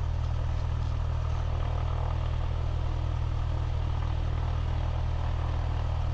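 Cessna 172S's four-cylinder Lycoming IO-360 engine idling steadily, a constant low drone heard from inside the cockpit.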